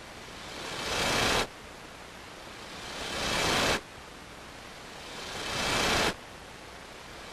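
A hiss that swells up over about a second and cuts off abruptly, repeating in an even cycle about every two and a half seconds. Three full swells, with a fourth building near the end.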